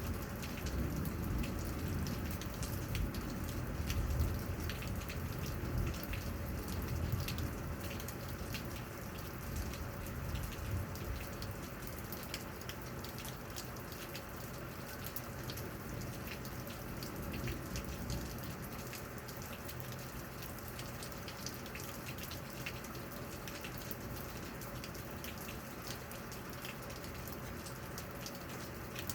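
Thunderstorm rain falling steadily, with many individual drops ticking close by. A low rumble of thunder dies away over the first dozen seconds or so.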